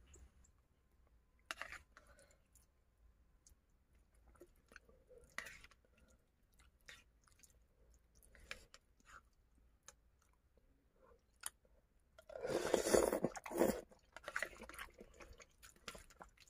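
A person eating close to the microphone: scattered small crunches and chewing sounds, with a louder stretch of crunching about twelve seconds in that lasts over a second.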